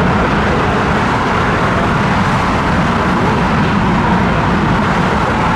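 Jet engines of an Airbus A340-300 airliner: a loud, steady rush of noise with a deep rumble underneath, holding even throughout.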